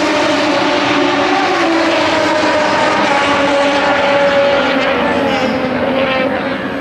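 Racing motorcycle engines running at high revs on the circuit, a loud sustained engine note from the bikes on track. The pitch sags slightly and the sound eases a little near the end as they pull away.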